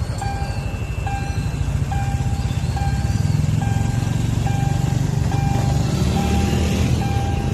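Railway level-crossing warning alarm beeping steadily, a little more than once a second, over a low engine rumble.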